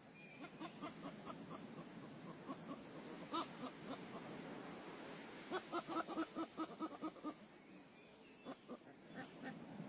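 Fowl-like clucking calls: runs of short, quick notes, about six a second, with the loudest run from about five and a half to seven seconds in and a few scattered notes near the end.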